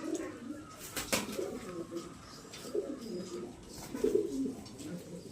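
Domestic pigeons cooing in repeated low, warbling phrases, with a sharp click about a second in.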